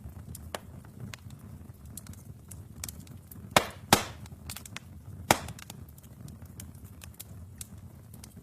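Wood fire burning in a fireplace: a steady low rumble of flames with constant small crackles, and three loud sharp pops from the burning logs about halfway through.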